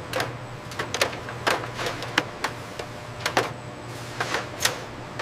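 Processing machinery clicking and clacking irregularly, a few sharp clicks a second, over a steady low hum.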